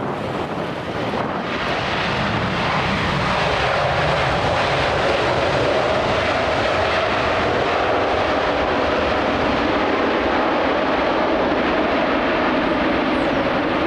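Jet airliner engines running loud and steady as the aircraft passes, the noise rising about a second and a half in and then holding.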